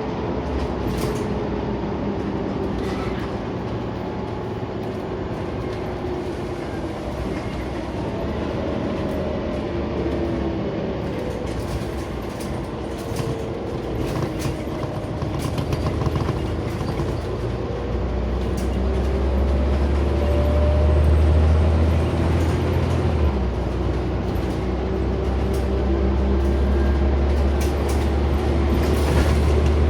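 Scania CN94UB Omnicity single-deck bus heard from inside the saloon while driving: a steady engine drone with a whine that slowly rises and falls in pitch, and scattered clicks and rattles. A deeper engine rumble grows louder from about 18 seconds in.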